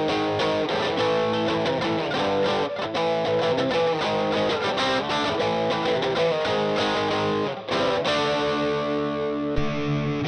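Stratocaster electric guitar played through a Valeton Dapper mini amp-simulator pedal with overdriven tone: quick picked single notes, then a chord left ringing. Near the end a sharp click, after which the tone turns brighter.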